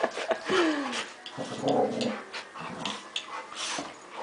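Puppies growling and whining as they play-fight: a short falling whine about half a second in, then low growling, with scattered sharp clicks.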